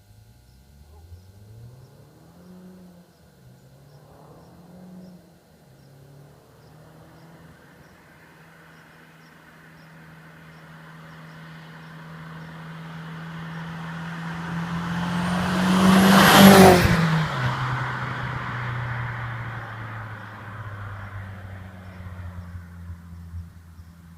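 Audi TT 225's turbocharged 1.8-litre four-cylinder with a 3-inch turbo-back exhaust and no catalytic converter, driving by: first heard at a distance revving up through several gear changes, then cruising closer, passing loudest about sixteen seconds in with a drop in pitch as it goes by, and fading away.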